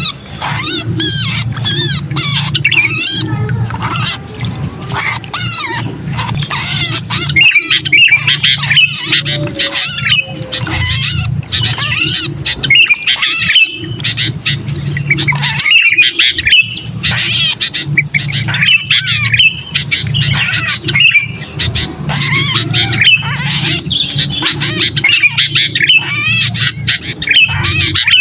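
Sooty-headed bulbuls giving the harsh, agitated 'kejepit' distress calls of a trapped bird, rapid chattering and squawking notes crowding one after another, the kind of call used to lure other bulbuls down. A steady low hum runs underneath.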